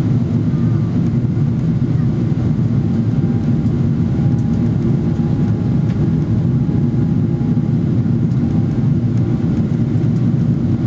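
Cabin noise of a Boeing 777-300ER in flight: a steady low drone of its GE90 engines and the airflow around the fuselage, heard from inside the passenger cabin.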